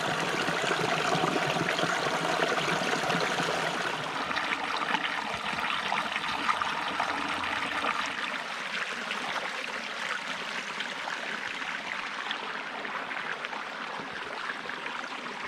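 Running water: a stream flowing steadily, with a dense trickling rush.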